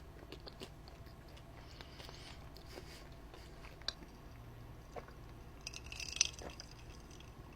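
A person chewing a mouthful of soft ricotta cheesecake with strawberry pieces, close to the microphone, with small wet mouth clicks and a few light sharper ticks over a low steady hum.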